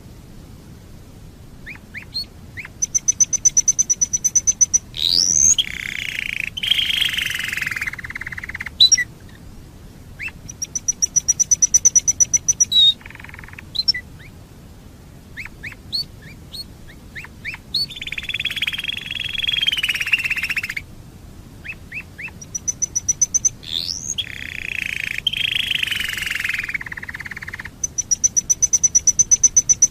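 Domestic canary singing in long phrases: fast, high trills of rapidly repeated notes alternate with louder rolling warbles, with short pauses between phrases.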